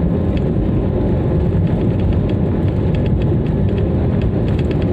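Airliner jet engines at takeoff power, heard from inside the passenger cabin: a loud, steady low rumble with faint ticks and rattles.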